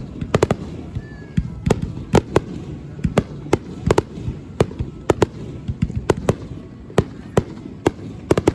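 Fireworks shells bursting at a display, a rapid irregular string of sharp bangs at about two to three a second over a low rumbling background.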